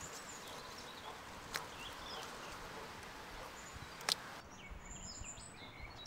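Small birds chirping over steady outdoor background noise, with two sharp clicks, the second louder, during hand-picking of strawberries.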